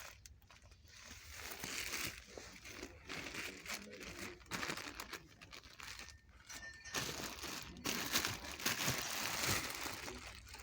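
Irregular rustling and crinkling that comes and goes in swells.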